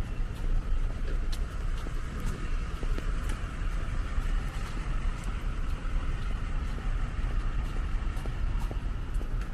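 Steady road traffic noise with a deep rumble and a few scattered light ticks.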